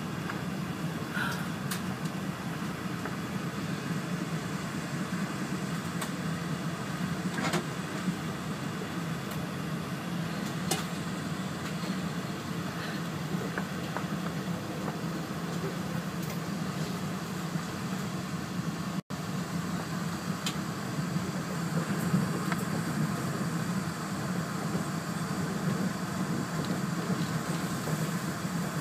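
Steady running noise inside the passenger cabin of a JR East E4 series Max Shinkansen as it pulls out of the station, with a few faint clicks.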